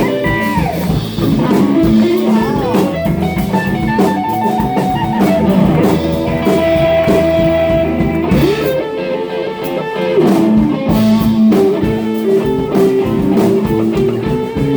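Live rock band playing an instrumental jam: electric guitar soloing with bent notes and sustained lines over bass and drum kit.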